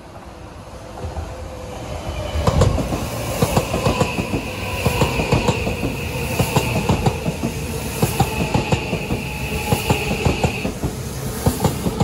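Odakyu Romancecar GSE (70000 series) electric express train passing close by. A rumble builds over the first two seconds, then comes a rapid, continuing run of wheel clicks over the rail joints, with a steady high whine from about two seconds in that stops near the eleven-second mark.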